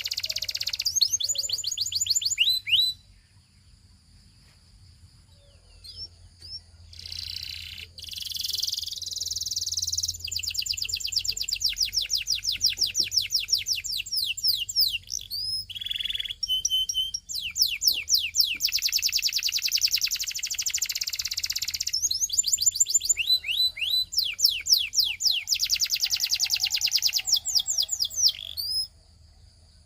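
Belgian singing canary singing in long, rapid trills of repeated high sweeping notes, phrase after phrase, with a short pause about three seconds in; the song stops just before the end.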